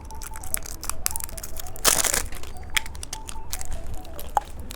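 Plastic packaging of a knife-shaped novelty candy crinkling as it is unwrapped, with many small sharp crackles and one louder tearing rip about two seconds in.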